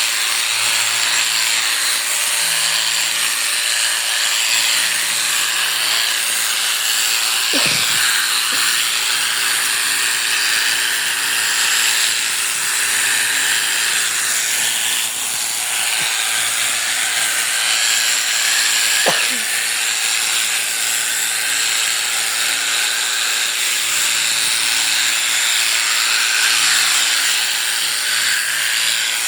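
Electric sheep-shearing clippers running steadily as they cut through the fleece, with two brief clicks about 8 and 19 seconds in.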